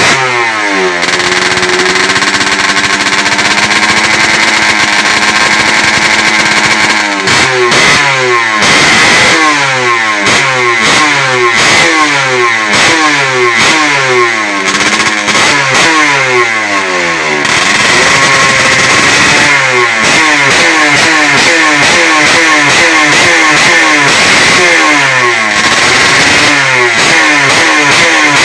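Yamaha F1ZR's single-cylinder two-stroke engine, breathing through a hollowed-out exhaust with no glass-wool packing, running loud. It is held steady for the first few seconds, then revved up and let fall again and again, about once a second.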